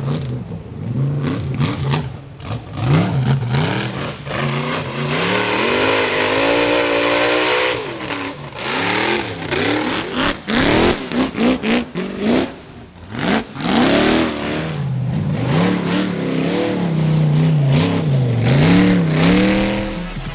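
Rock bouncer buggy engines revving hard, the pitch climbing and dropping again and again, broken by several abrupt cut-offs between bursts.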